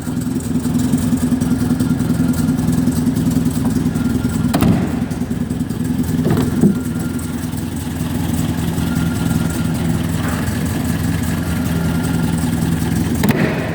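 1952 MG saloon's four-cylinder engine idling steadily, with a sharp click about four and a half seconds in and a smaller knock about two seconds later.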